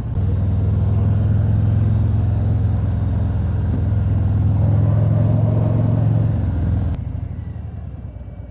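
Harley-Davidson V-twin motorcycle engine running at a steady cruise, with road noise. About seven seconds in, the sound drops suddenly to a quieter, lower engine note.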